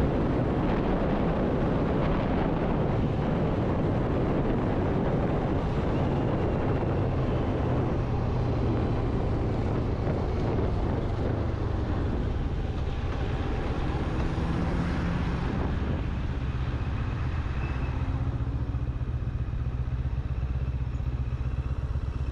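Motorcycle engine running while riding at fairly even speed, its pitch shifting slightly a few times, over a steady rush of wind and road noise.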